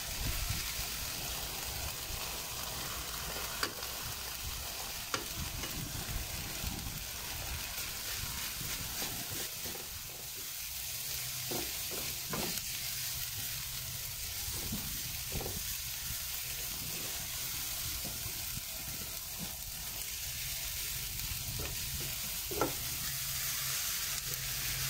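Chopped chicken, onions and garlic sizzling steadily in oil in a frying pan, stirred with a spatula that scrapes and taps against the pan now and then.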